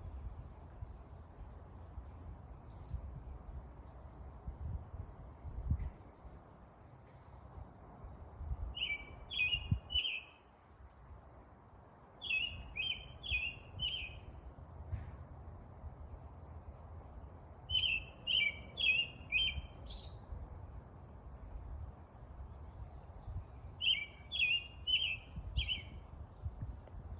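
Songbirds chirping outdoors. A thin, high chip repeats about once a second, and four times a quick phrase of four lower notes cuts in, the loudest sounds here. A low rumble runs underneath.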